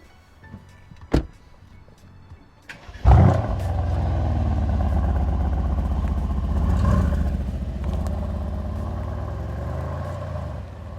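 Mercedes-AMG GLC 63 S's 4.0-litre twin-turbo V8 starting about three seconds in: it flares up loudly, then settles into a steady idle, with a brief rise in revs near the middle before dropping to a lower idle. A single sharp click comes about a second in.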